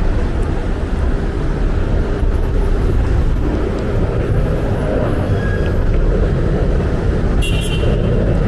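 Street traffic: cars running along the road as a steady low rumble, with a brief high-pitched squeal or chirp near the end.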